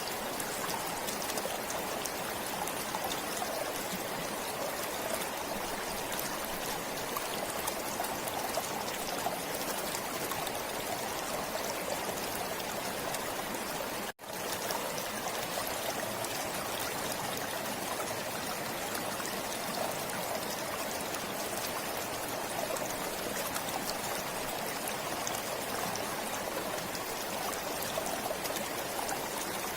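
A forest stream flowing and trickling steadily. About halfway through, the sound cuts out for an instant and fades straight back in.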